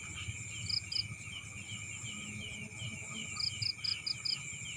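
Night insects chirping in a rice field: steady high-pitched cricket trilling, with a row of short chirps repeating about three times a second and a quick run of higher pulses near the end, over a low background rumble.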